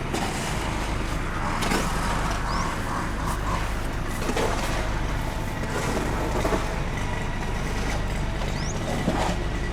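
Bus diesel engine idling with a steady low hum, among outdoor background noise with a few scattered clicks and two brief high squeaks.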